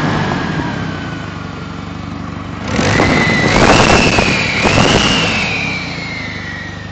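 A 1988 Volvo's turbocharged engine running with no exhaust system. Its revs ease off, then about three seconds in it is revved up hard for a couple of seconds, with a high whistle rising and falling along with the revs, before dropping back toward idle.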